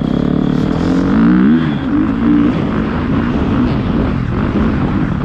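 Motocross bike engine revving, its pitch climbing and dropping several times as the throttle is worked.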